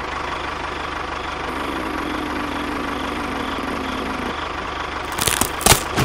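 Tractor engine running steadily at idle, with a faint hum in the middle stretch. A few sharp cracks come close together near the end.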